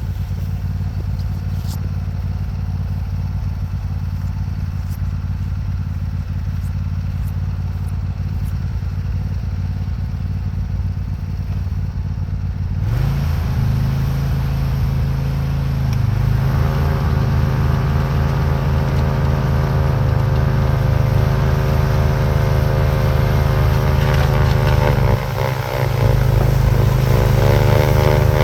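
Craftsman YT4000 lawn tractor engine running steadily while driving its front-mounted Bercomac snowblower through the snow. About 13 seconds in the sound grows louder and fuller, and from about 16 seconds a steady pitched engine note comes through, dipping briefly about 25 seconds in.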